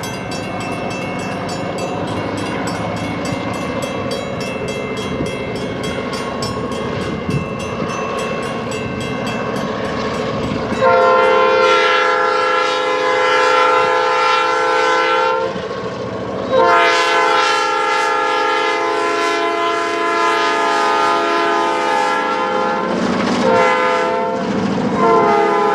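Railroad passenger cars rolling past, wheels clicking rapidly over the rail joints. About eleven seconds in, a locomotive horn or whistle with several tones sounds two long blasts and then shorter ones, like a grade-crossing signal.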